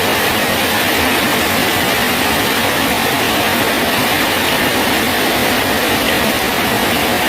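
Steady rain falling on a bridge, an even hiss that does not change.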